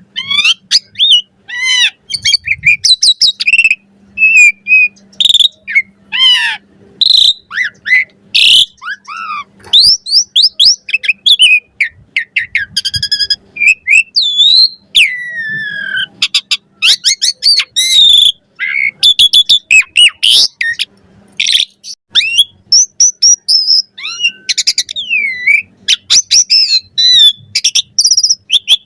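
Asian pied starling (jalak suren) singing a long, varied song: a fast, nearly unbroken run of whistles, rising and falling glides, rapid rattling trills and sharp clicks.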